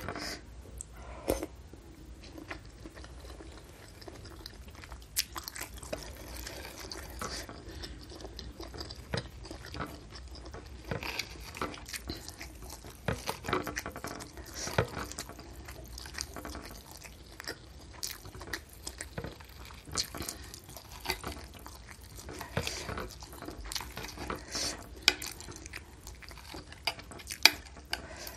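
Close-miked chewing and biting of beef meatballs and noodles, with irregular sharp clicks throughout, some from a metal spoon knocking the ceramic bowl.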